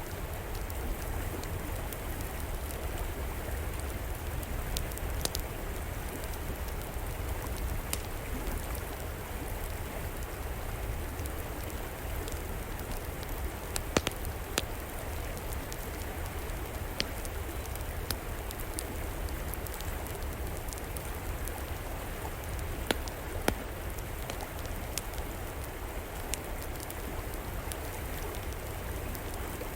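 River water flowing steadily, with an outdoor wood fire crackling over it in scattered sharp pops; the loudest pops come about halfway through and again about two-thirds of the way in.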